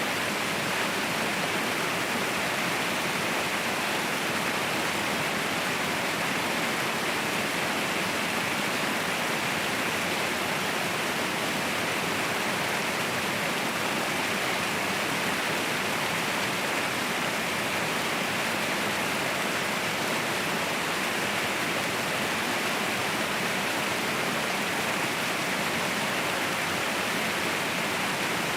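Mountain waterfall roaring, a steady, even rush of falling water with no breaks or separate events.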